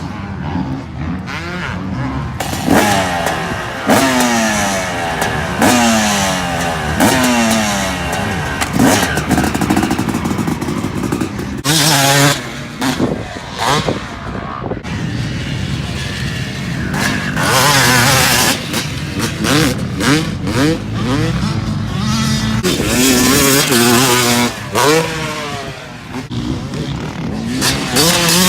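Yamaha YZ250 two-stroke dirt bike engine with an FMF full exhaust, ridden hard: it revs up and drops back in pitch again and again as it goes through the gears and the throttle.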